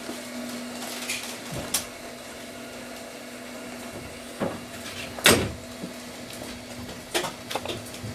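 Steady hum inside a moving Aoimori Railway train, with scattered knocks and rattles; the loudest is a single thump about five seconds in.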